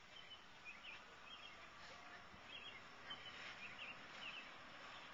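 Faint birdsong: short high chirps every second or so over a steady low background noise.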